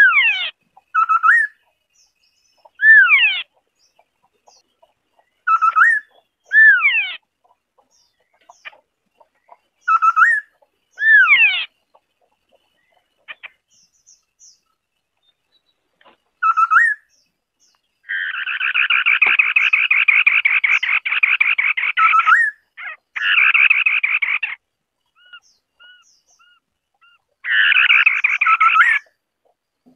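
White-browed scimitar-babbler singing: clear whistled notes in short groups with pauses, some sliding steeply down and some short upward-hooked. From about eighteen seconds in comes a long, rapid rattling trill of about four seconds, followed by two shorter trills near the end.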